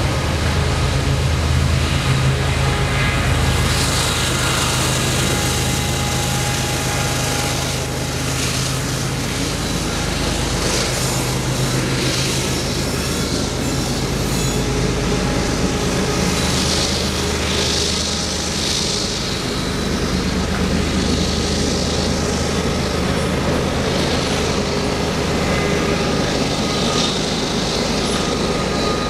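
Loaded coal train climbing a grade: steel wheels of the coal cars rumbling and clicking over the rails with some flange squeal, under the steady low drone of a GE AC diesel locomotive working at full throttle in the middle of the train.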